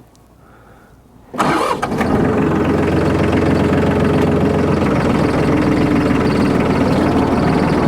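A vehicle engine starts about a second and a half in, catching quickly, then runs at a steady idle.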